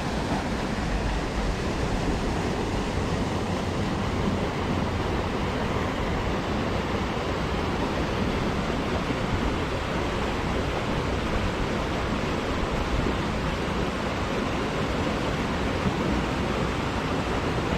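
Mountain-fed creek water rushing steadily.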